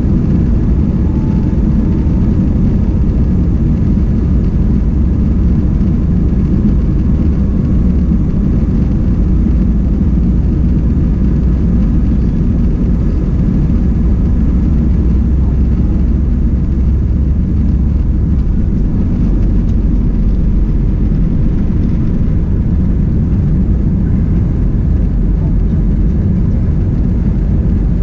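Cabin noise inside an Airbus A320 airliner: a loud, steady low rumble from the engines and airframe.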